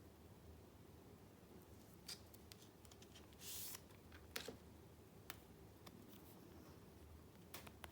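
Faint paper handling: a few small clicks and taps, and a brief swish of paper sliding or rustling about three and a half seconds in, over low room hum.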